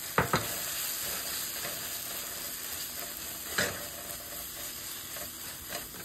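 Onion, tomato and grated coconut frying in oil in a pan, sizzling steadily while a wooden spatula stirs them. The spatula knocks sharply against the pan twice just after the start and once about halfway through.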